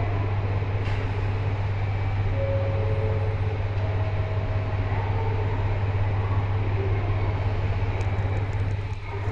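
Steady low train hum at a station, with a KiHa 40 diesel railcar pulling away into the distance.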